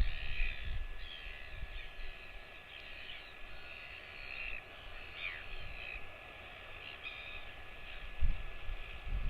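Birds calling: many short chirps and sweeping calls throughout. Low rumbling thumps come at the very start and again near the end.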